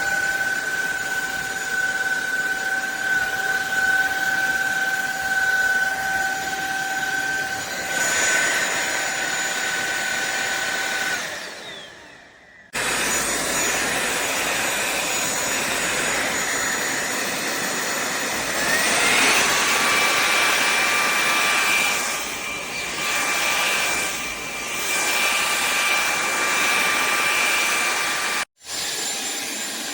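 SunSare X7A cordless stick vacuum's motor running with a steady high whine over the suction noise. It winds down about eleven seconds in, then is running again. A little past halfway its whine climbs to a higher pitch and stays there, and near the end it cuts off abruptly.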